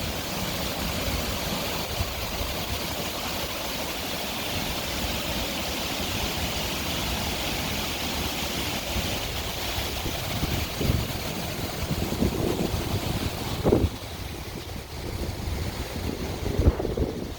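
Waterfall water rushing with a steady hiss. From about ten seconds in, gusts of wind buffet the microphone with a low rumble.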